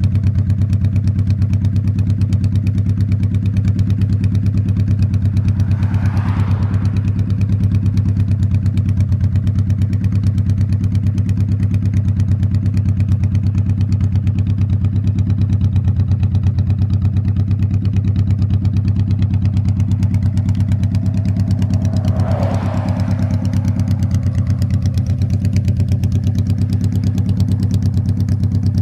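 2000 Honda Shadow Spirit 1100's V-twin engine running at a steady cruising speed under the rider, its low pulsing note unchanging. Two brief swells of noise with a falling pitch pass over it, about 6 and 22 seconds in.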